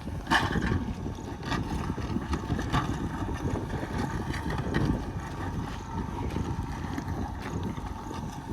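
Heavy diesel earthmoving machinery running steadily with a low rumble and a thin steady whine, punctuated by several sharp metallic knocks, the loudest about a third of a second in.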